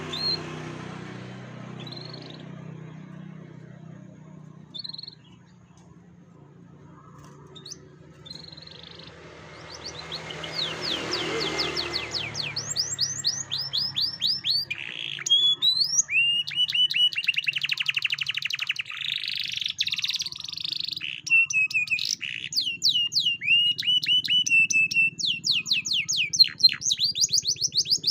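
Domestic canary singing in long, rapid trills and chattering phrases. The song starts faintly with scattered chirps, builds about ten seconds in and is loud from about fifteen seconds on, over a low steady hum.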